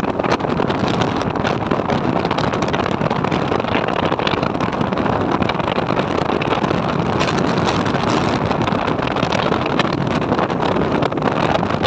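Motorcycle running at steady speed, its engine sound mixed with a constant rush of wind on the microphone.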